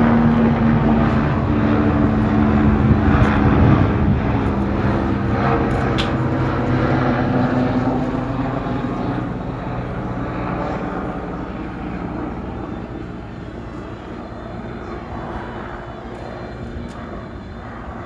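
Agusta A109S Grand helicopter's turbine engines and rotor running, fading steadily from loud to much fainter over the stretch.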